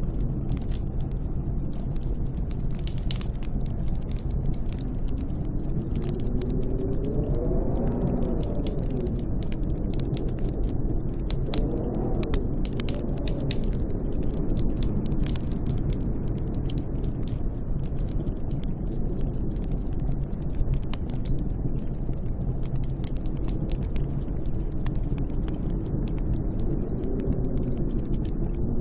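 Snowstorm wind: a steady low rush with howling gusts that rise and then fall in pitch, about eight seconds in, again around twelve seconds, and near the end, over a scatter of faint crackling clicks.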